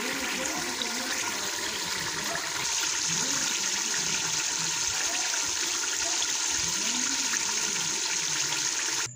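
Chicken gravy bubbling in a pot, with the oil risen to the top and sizzling steadily. Oil separating on top is the sign that the curry is done. The sound cuts off suddenly near the end.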